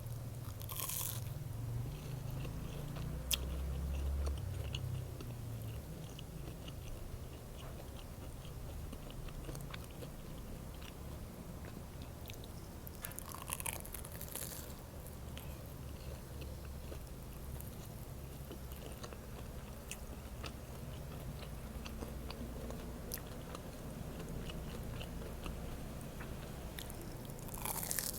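A person biting into and chewing an egg sandwich. There are crisp bites about a second in, around the middle, and near the end, with steady chewing and small mouth clicks between them.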